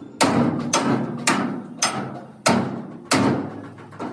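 Hammer blows during truck body repair: six strikes about half a second apart, each followed by a short ring.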